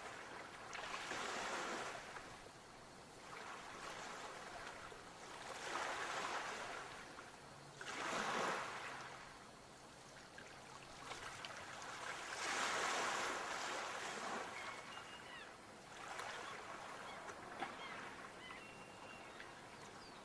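Sea waves breaking and washing onto a shore, swelling and falling back every few seconds, with the biggest surges about eight and thirteen seconds in.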